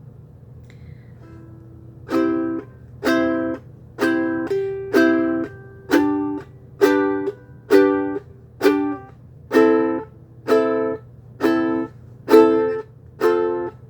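Ukulele strummed in a steady, choppy rhythm, each strum cut off short, starting about two seconds in.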